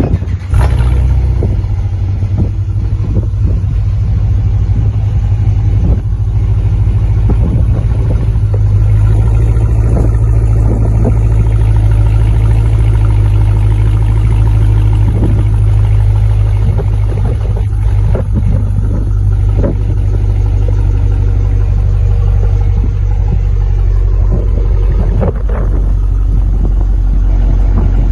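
2019 Chrysler 300S's 5.7 L Hemi V8 running through a Dodge Challenger Scat Pack cat-back exhaust, warm. It comes in loud about half a second in, then idles steadily with a deep, even rumble.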